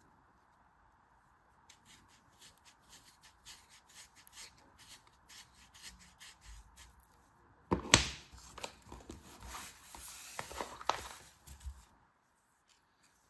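Hands unpacking a product: light scattered taps and rustles, then about eight seconds in a sharp rip and some four seconds of loud crinkling and tearing of the packaging, which stops abruptly.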